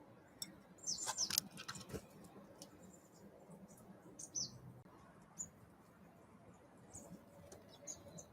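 Small wild birds giving brief high chirps and calls, with a louder burst of sharp chirps and clicks about a second in.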